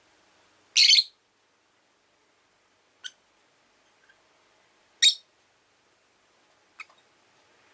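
Rosy-faced lovebirds giving four short, sharp chirps, two of them loud, at about one second and five seconds in, with two fainter ones between and after.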